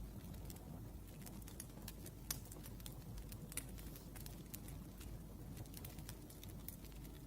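Wood fire crackling: irregular sharp snaps and ticks over a low steady rumble, with two louder pops about two seconds in and about three and a half seconds in.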